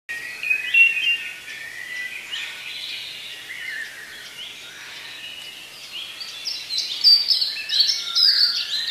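Many birds chirping and singing over a steady background hiss, the chirps growing busier and louder near the end.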